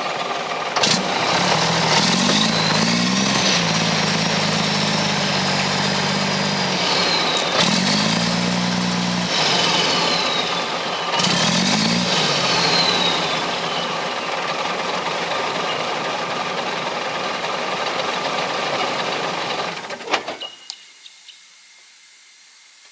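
Mack R600 truck's diesel engine revved three times to drive the tipper's hydraulic hoist, a high whine rising and falling with the revs; the tipper is at as high as it will go, which the owner puts down to hydraulic oil leaked out. The engine is then shut off about 20 seconds in, leaving a few clicks and a faint hiss.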